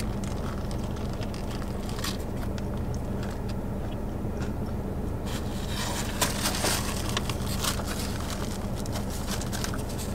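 Close-up chewing of a crispy fried chicken sandwich, with paper crackling more densely in the second half as a paper food bag is handled. A steady low car hum runs underneath.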